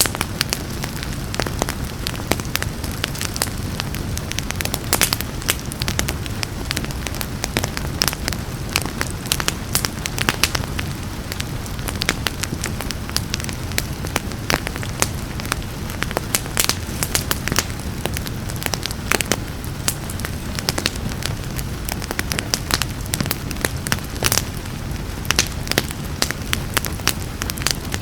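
Wood fire crackling in a fireplace, with frequent sharp pops and snaps over a steady hiss of rain.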